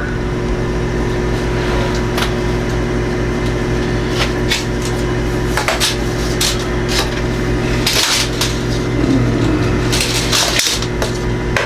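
Steady low machine hum with several held tones, over which come scattered clicks, knocks and rattles of objects being handled, the loudest about eight seconds in and again around ten seconds.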